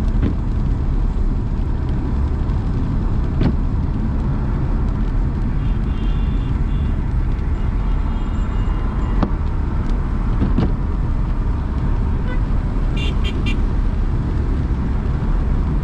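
Steady low rumble of a car driving through city traffic: engine and tyre noise. Faint car horns beep briefly twice, the second time as a few quick toots near the end.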